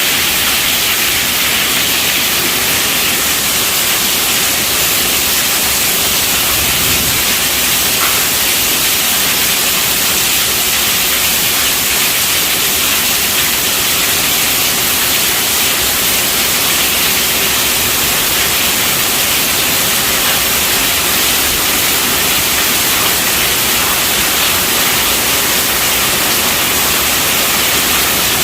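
Steady rainfall: an even, unbroken hiss with no distinct drops or thunder.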